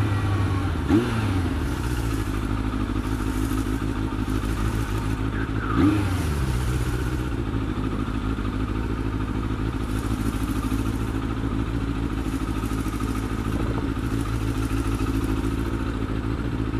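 Yamaha FZR600 inline-four running at steady riding revs under way, with wind rush. The engine note dips briefly about a second in and again around six seconds. The carburettors have just been cleaned and the air-fuel screws reset.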